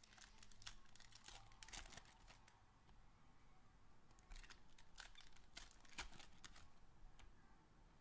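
Faint crinkling and tearing of trading-card packaging being handled and opened, in two bursts of crackles with a lull between.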